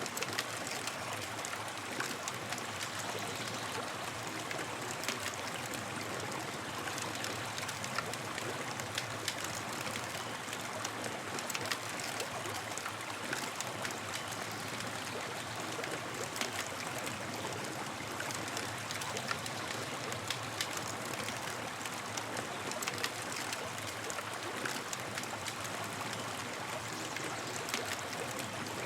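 Campfire crackling steadily: a constant hiss of burning wood with many small sharp pops and snaps scattered throughout.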